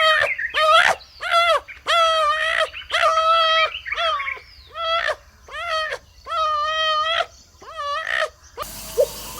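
An animal calling over and over, about ten short high-pitched cries in a row, each rising, holding and dropping in pitch. Near the end a different sound takes over: regular short pulses, about three a second.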